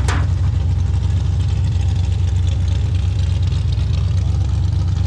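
An engine idling with a steady low rumble that does not rise or fall; a short sharp click right at the start.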